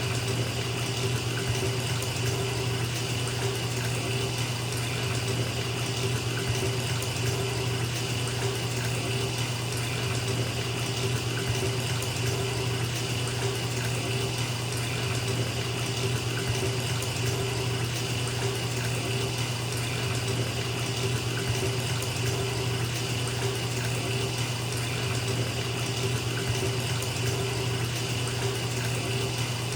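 Bathtub tap running full, water pouring steadily into the filling tub with a constant rushing splash and a low drumming rumble.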